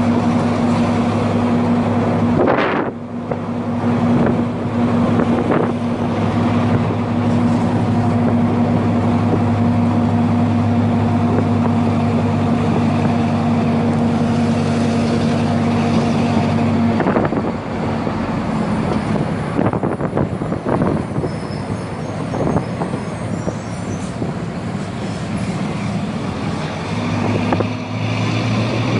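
Four-cylinder diesel engine of an Agrale MT 17.0 LE city bus, running with a steady note and a short hiss about two and a half seconds in. Some 17 seconds in, the steady note drops away and the sound turns rougher and more uneven; the steady note returns near the end.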